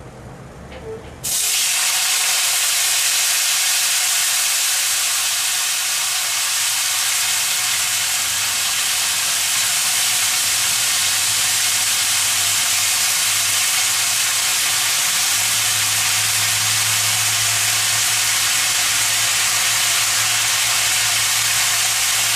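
Wet cauliflower florets, fresh from a vinegar and salt-water soak, dropped into hot oil in a steel kadhai and sizzling loudly. The sizzle starts suddenly about a second in and then holds steady.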